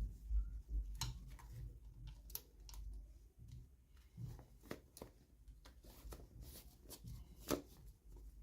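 Hands handling and opening toy packaging: irregular small clicks, crinkles and taps, a few sharper ones about a second in and near the end.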